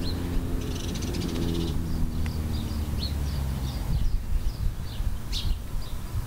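A small bird chirping, short high calls repeated about every half second, over the low steady hum of an idling engine that fades out about four seconds in.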